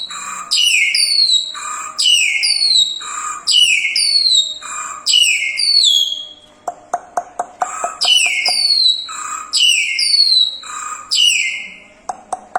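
Jalak Hongkong starling singing a loud, rapidly repeated phrase of falling whistled notes. The phrase breaks off twice for a quick run of sharp clicks, about eight in a second.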